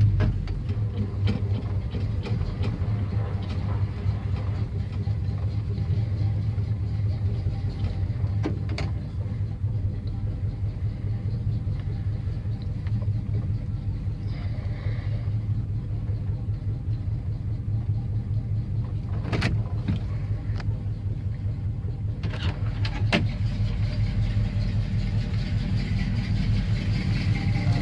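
A 1984 Chevrolet C10's 305 small-block V8 idling steadily as it warms up after a cold start. A few sharp clicks come about two-thirds of the way through.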